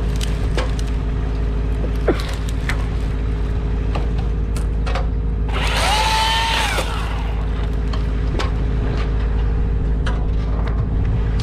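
An engine running steadily, rising in pitch, holding and dropping back once about six seconds in, with scattered sharp knocks over it.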